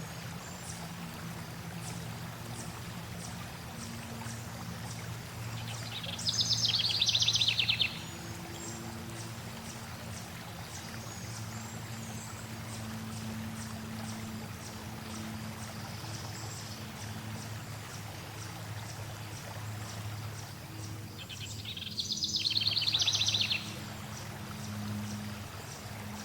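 Flowing stream water running steadily, with songbirds; a bird gives a loud, rapid trilled song twice, about six seconds in and again near twenty-two seconds.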